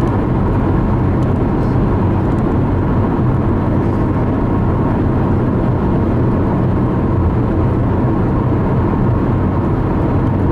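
Steady road noise inside a moving car at highway speed: the low rumble of tyres and engine.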